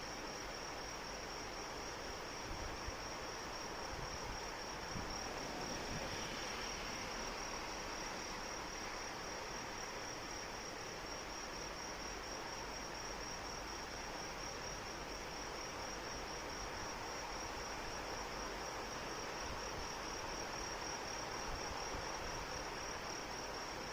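Steady rain with insects trilling: a continuous high-pitched, finely pulsing insect chorus over an even hiss of falling rain.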